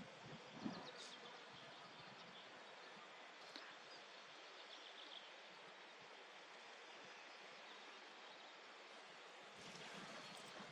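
Near silence: faint outdoor background hiss with a few soft ticks in the first few seconds.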